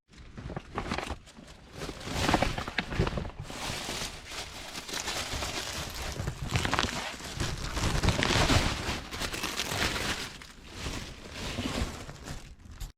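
Rustling and crinkling of plastic meal packaging being handled, with scattered small knocks.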